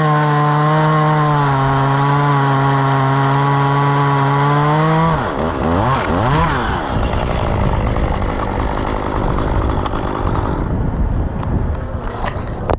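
Chainsaw running at steady high revs; about five seconds in the revs drop and swing down and up a few times, and the sound turns rougher and noisier, with a few sharp clicks near the end.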